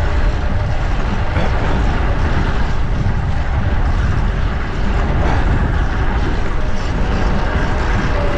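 Wind rushing over an action camera's microphone on a moving fixed-gear bicycle, a loud steady low rumble, with road traffic around it.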